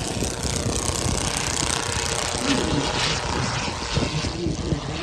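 Large radio-controlled model aircraft flying overhead, its engine note drifting slowly in pitch as it passes.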